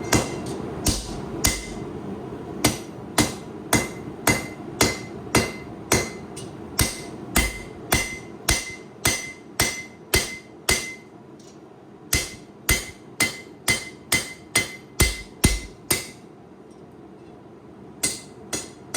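Hand forging hammer striking hot high-carbon steel on an anvil, drawing out and narrowing the tang of a knife blade. Steady ringing blows come about two a second, with a short break about eleven seconds in and a longer one near the end.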